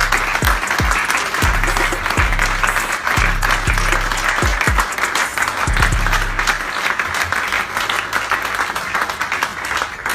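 A crowd applauding over music with a deep bass line and a pounding bass-drum beat.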